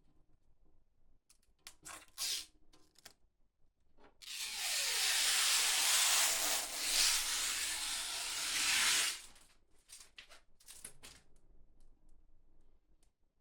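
A steady hiss of air or spray lasting about five seconds, with a few short clicks and knocks before and after it.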